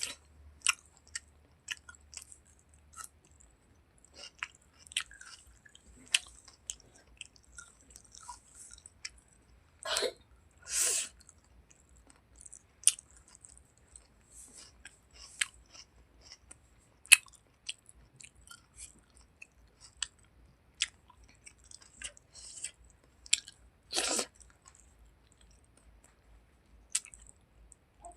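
A person chewing and eating chicken-skin curry with rice, close up: a string of wet mouth clicks and smacks, with a few longer, louder noises about ten and eleven seconds in and again later.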